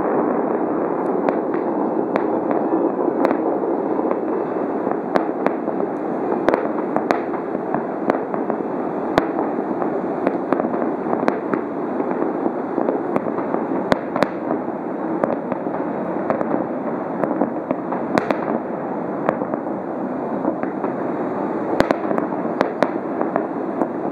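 Fireworks display: a continuous rolling rumble of shell bursts, with many sharp cracks scattered through it.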